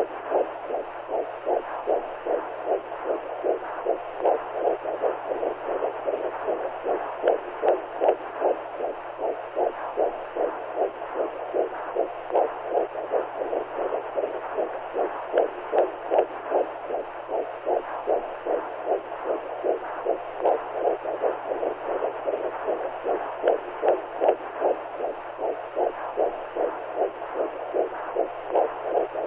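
Womb sound for soothing newborns: a mother's heartbeat and blood flow heard as steady, rhythmic whooshing pulses over a constant low hum.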